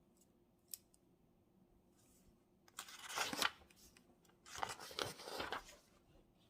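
Paper being handled at a desk: a single light click, then two short bursts of dry rustling, the second a little longer.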